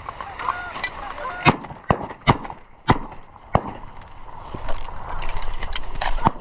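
Geese honking, with about five sharp shotgun blasts in quick succession over about two seconds early on; honking carries on afterwards.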